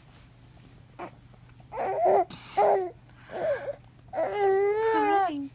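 Baby babbling: a few short pitched syllables, then one long held vocal sound that dips in pitch at the end.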